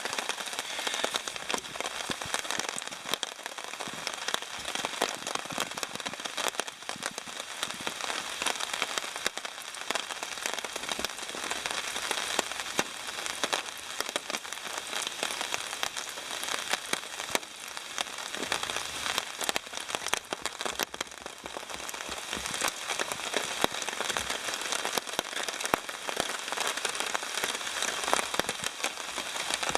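Steady rain, a dense patter of drops falling without let-up.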